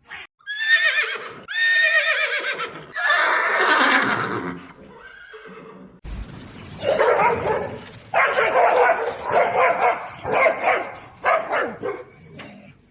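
Horse whinnying: two high, quavering calls and a longer, lower one in the first half. After an abrupt cut about halfway through comes a run of loud, rougher pulsed calls.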